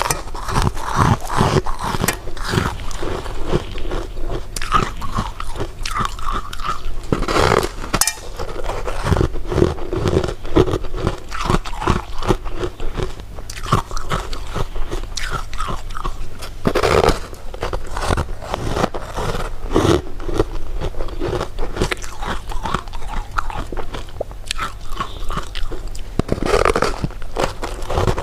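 Close-miked eating of candy: repeated irregular bites and crunches with wet chewing between them.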